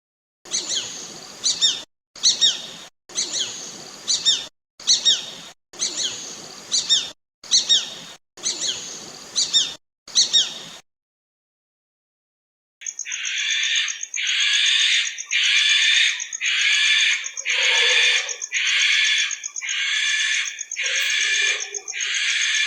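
Calls of birds of prey in two series. First come eight call bouts of about a second each, made of quick falling notes, which stop about eleven seconds in. After a short pause comes a steadier series of about ten calls, roughly one a second.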